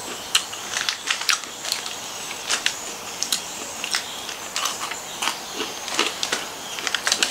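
Chewing and crunching Milo Nuggets, small chocolate-coated malt snacks, close to the microphone: a run of irregular sharp crackles, with occasional crinkles from the foil snack packet being handled.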